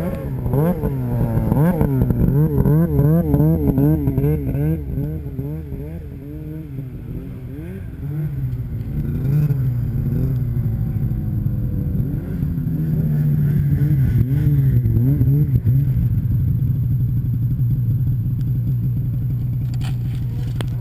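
Snowmobile engine running hard, its pitch rising and falling quickly as the throttle goes up and down, then holding steadier in the second half.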